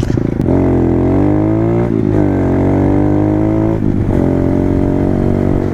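Pit bike engine pulling away under throttle, its pitch climbing, dropping briefly at a gear change about two seconds in, climbing again, dropping at another change about four seconds in, then running steady.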